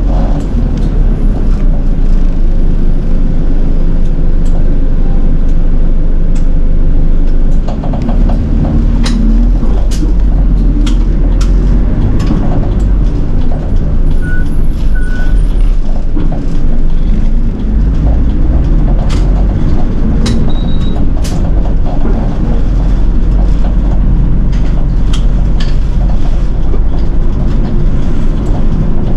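City bus riding with its diesel engine running in a steady low rumble. Through the middle stretch the body rattles and knocks repeatedly.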